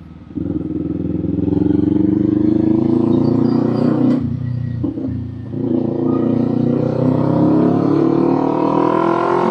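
Kawasaki Z400's parallel-twin engine through an aftermarket exhaust, accelerating through the gears: the revs climb, drop briefly at an upshift about four to five seconds in, then climb again in the next gear.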